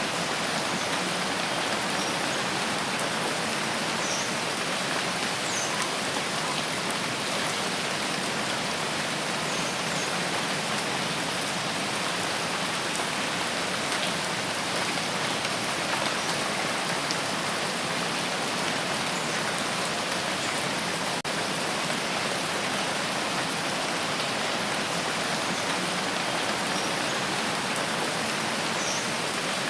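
Steady rain falling, an even, unbroken hiss that does not let up.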